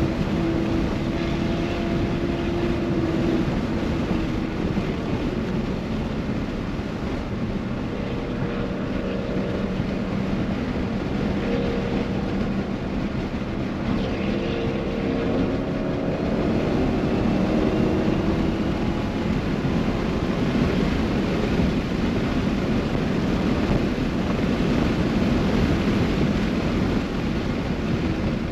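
Dodge Challenger SRT's V8 engine being driven hard on a race track. Its pitch rises as it accelerates and drops under braking and downshifts for corners, over steady wind and road noise.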